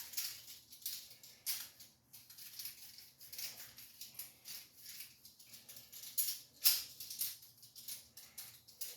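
Faint, irregular small metallic clicks and rattles of an adjustable stone cylinder hone being handled and set, several a second, with a sharper click about two-thirds of the way through.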